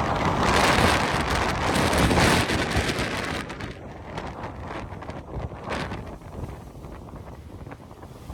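Strong gusting wind buffeting the microphone in a loud, rushing roar that peaks over the first three seconds, then eases into shorter, choppier buffets.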